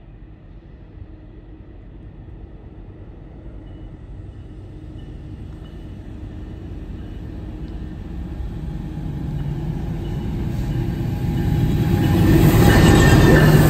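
Train led by three diesel locomotives approaching along the track, its engines and wheels growing steadily louder until the lead locomotive passes close by about twelve seconds in.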